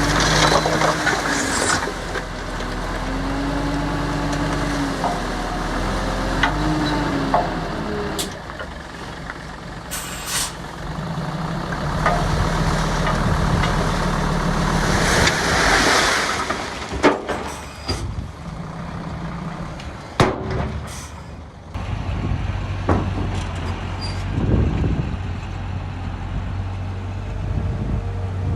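Diesel engine of a bulldozer or dump truck working, its pitch rising and falling several times as it revs. Hissing bursts come about ten and fifteen seconds in, with a few knocks. From about two-thirds of the way through it settles into a steadier, lower hum.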